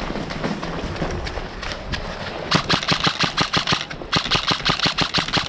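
Airsoft guns firing: scattered single shots at first, then from about two and a half seconds in a fast full-auto clatter of about a dozen shots a second, with a brief break near the end.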